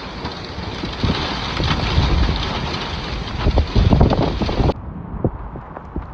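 Heavy rain and hail striking hard surfaces in many sharp knocks, with strong wind buffeting the microphone. About 4.7 s in the sound cuts abruptly to a duller stretch with only scattered hailstone hits.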